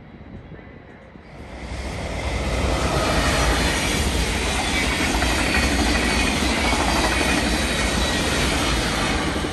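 A train passing close by: a rush of wheel and rail noise that swells in over about a second, a second or so in, and then stays loud and steady.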